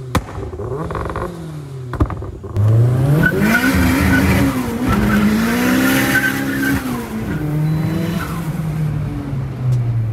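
Turbocharged Suzuki Swift Sport engine revving with its anti-lag system active. There are two sharp bangs, one at the very start and one about two seconds in. Then the revs climb and are held high for about four seconds before dropping back and falling away near the end.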